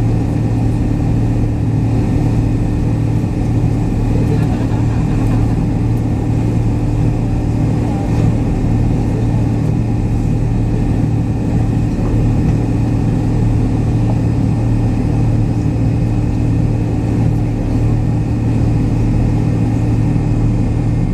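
Steady drone of a McDonnell Douglas MD-83's rear-mounted Pratt & Whitney JT8D turbofan engines heard from inside the passenger cabin, a constant low hum with no change in pitch.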